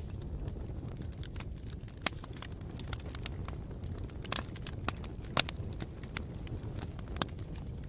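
Campfire crackling: a steady low rumble with scattered sharp pops, the loudest about two, four and five and a half seconds in.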